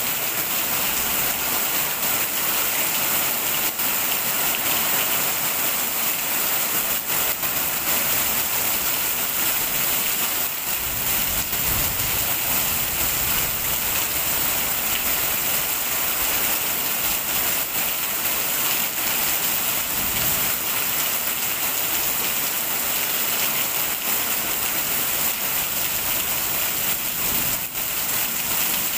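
Heavy rain falling steadily on a stone wall and wet, puddled ground, an even dense hiss without a break.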